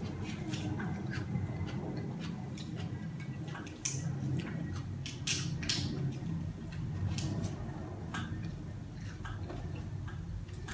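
Eating sounds: chewing on breaded, fried pork cutlet, with light clicks scattered through it.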